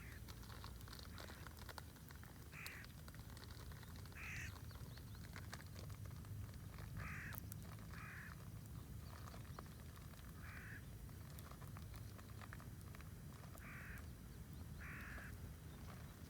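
Campfire crackling with scattered small pops, under a low rumble. A bird calls in short notes about seven times, each a fraction of a second long and a second or more apart.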